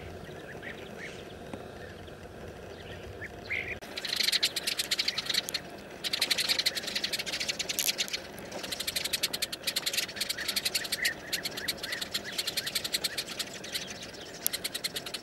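A flock of sparrows calling. There are a few scattered chirps at first, then from about four seconds in a dense, rapid clicking chatter that carries on with short breaks. This is alarm calling, set off by a snake near their nest holes.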